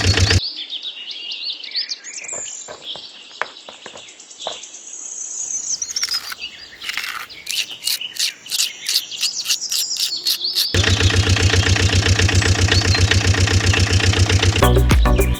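An engine-like motor running with a steady drone, broken off for about ten seconds by high chirping calls and quick clicks, then starting up again near the end.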